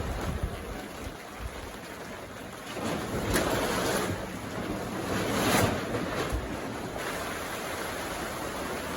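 Steady rain falling, swelling louder for a few seconds near the middle before easing back.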